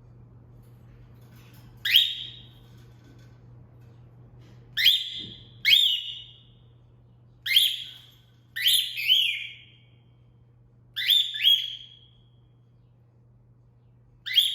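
Female cockatiel whistling: about seven short, sharply rising whistles, some in quick pairs, each sweeping up and trailing off.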